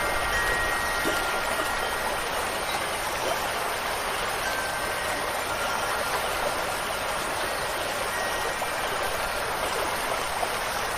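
Steady rush of water, with faint wind-chime tones ringing and fading a few times over it.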